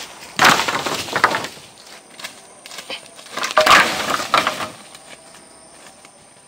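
Wood cracking and splintering in two loud bursts of quick cracks, about a second apart each: branches or brush being broken or hacked.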